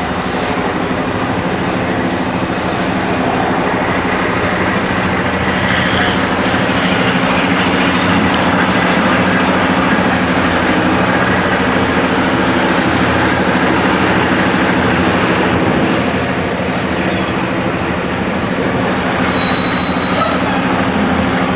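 Tractor-trailer's diesel engine running with a steady rumble and a constant low hum as the truck is backed toward a loading dock. A brief high-pitched squeal comes near the end.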